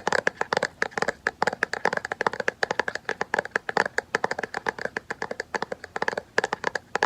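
Rapid, close-miked tapping and scratching, many light clicks a second, with a brief pause about six seconds in.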